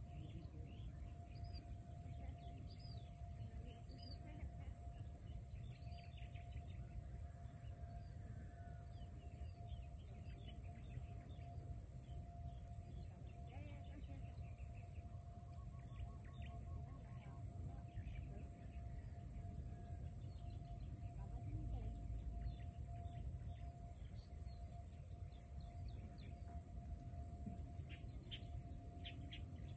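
Birds chirping in short, scattered calls over a steady high-pitched drone and a low rumbling background.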